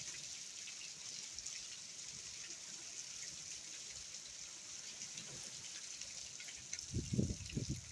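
Steady rain hissing, with scattered drips ticking. Near the end, a few gusts of wind buffet the microphone with low rumbling thumps.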